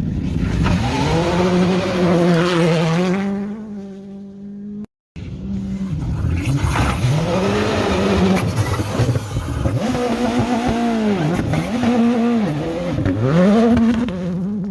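Rally car engines revving hard in two cut-together clips, the pitch dropping and climbing again several times as the drivers shift or lift off. Near the end the pitch dips and recovers three times in quick succession. There is a short moment of silence about five seconds in.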